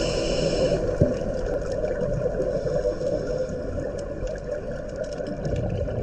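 Boat motor running, a low steady rumble that slowly fades, with a single knock about a second in. The tail of background music dies away at the start.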